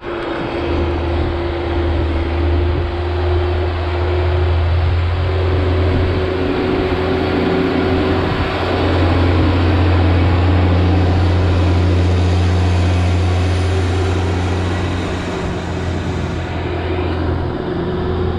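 Tractor engine running steadily, a deep, loud hum over a wash of mechanical noise, swelling a little in the middle and easing slightly near the end.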